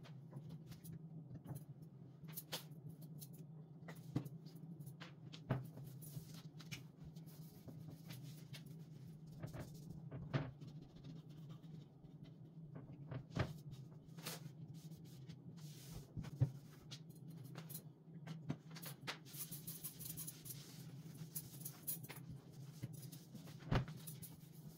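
Scattered light knocks and clicks of household items being handled and set down while cleaning and tidying, over a steady low hum, with a few seconds of hiss about three-quarters of the way through.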